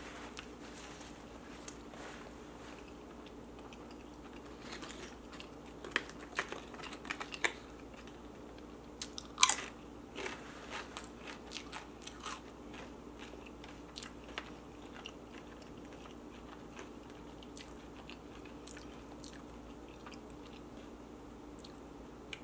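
Close-miked chewing and biting of a crisp chicken quesadilla: wet chewing broken by sharp crunches, thickest in the middle, with the loudest crunch about nine and a half seconds in. A faint steady hum runs underneath.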